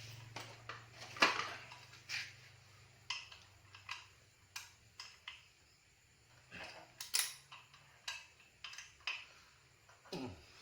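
Metal parts and hand tools clinking and knocking in an irregular string of sharp clicks, the loudest about a second in, as brake components are handled.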